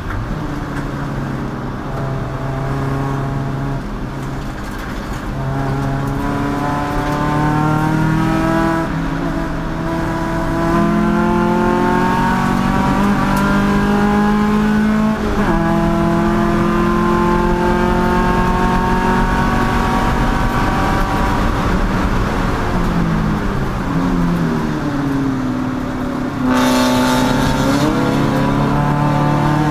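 Race car engine under hard acceleration, its pitch climbing through the revs and dropping back at gear changes, then falling away as it slows for a corner and winding up again. A loud rushing hiss joins near the end.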